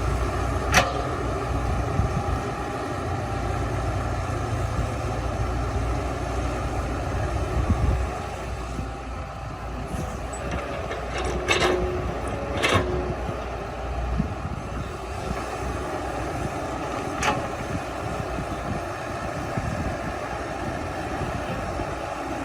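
Heavy diesel earthmoving machinery running, its low engine rumble dropping off about a third of the way in. A few sharp metallic clanks come through, two close together past the middle.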